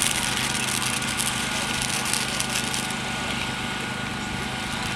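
Winda consumer fireworks fountain burning: a steady spraying hiss peppered with fine crackling, over a steady low engine-like hum.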